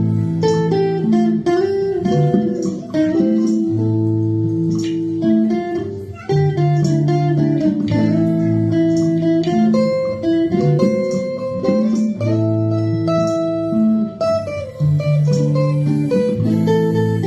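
A guitar playing a chord progression with no singing, the chords plucked and strummed and changing about once a second.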